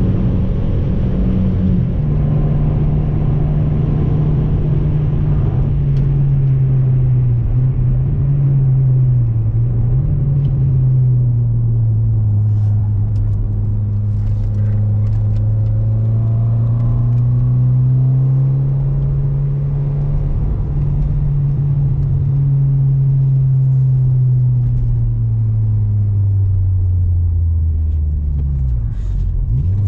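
Seat Ibiza's engine heard from inside the cabin, driven hard on a race track. The engine note drops sharply about a second and a half in, then rises and falls slowly with the throttle through the corners. Near the end it dips and quickly climbs again during a gear change.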